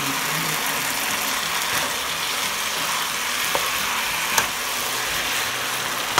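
Chicken, liver and mushrooms sizzling steadily in a hot frying pan while being stirred with a spatula, with a couple of light clicks of the spatula against the pan about halfway through.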